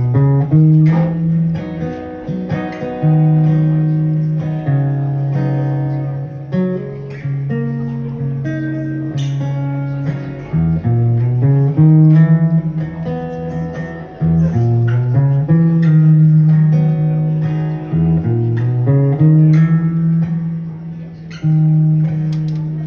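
Instrumental introduction to a song played on guitar: plucked notes ringing over held low bass notes that change every few seconds.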